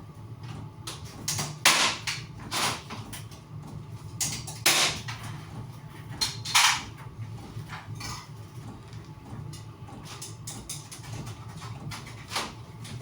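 Irregular knocks and clatter of things being handled and set down, several louder bangs in the first seven seconds, over a steady low hum.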